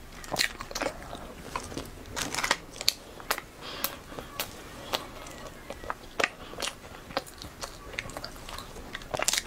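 Crisp pink layered wafer snack being bitten and chewed: irregular sharp crunches, each one separate.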